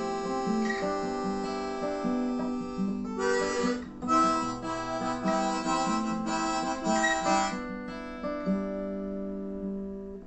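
Acoustic guitars playing an instrumental break of an Americana song between verses, with a sustained lead melody held over the chords.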